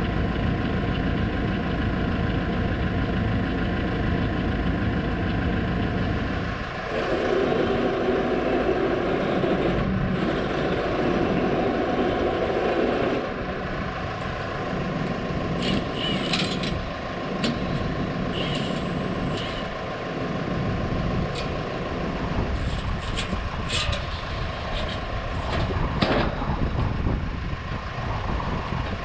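New Holland tractor engine running steadily, its note changing and growing louder for several seconds from about seven seconds in, with scattered clicks and knocks in the second half.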